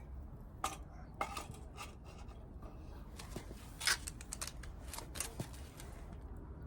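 A series of short, sharp clicks and scrapes from small hard objects being handled, the loudest about four seconds in.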